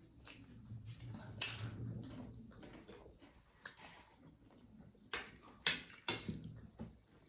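Close-up eating sounds: wet chewing and smacking, with scattered sharp clicks like dishes being touched, over a low hum during the first couple of seconds.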